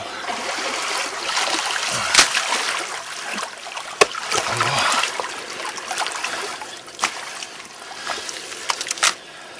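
Water splashing and trickling as a muddy, root-bound tussock is dug apart in shallow water, with a few sharp clicks and snaps along the way.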